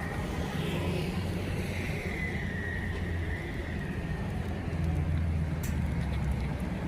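A steady low engine rumble, with a faint high tone that dips slightly in pitch around the middle and a couple of sharp clicks near the end.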